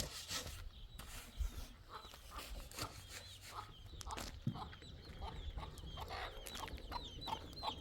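Chickens clucking, with short high calls repeating faster and faster through the second half.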